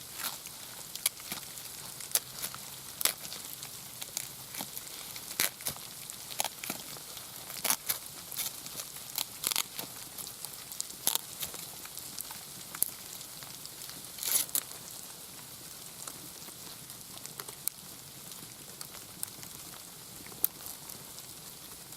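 Irregular crackling and snapping of a turkey wing feather's quill being split apart by hand, over a steady hiss, with a few louder snaps about nine and fourteen seconds in.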